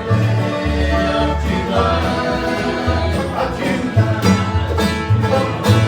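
A string band playing the closing bars of a bluegrass song: banjo and guitar picking over a strong, steady bass line.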